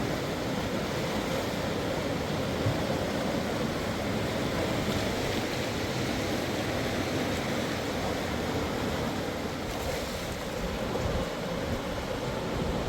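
Steady rushing of a fast river, an even wash of water noise with no breaks.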